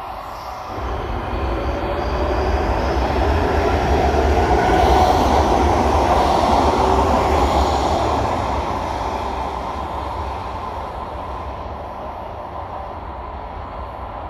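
Łódzka Kolej Aglomeracyjna electric multiple unit running along the platform of an underground station. Its rumble builds over a few seconds, peaks about five seconds in and then fades, with a faint high whine in the first few seconds.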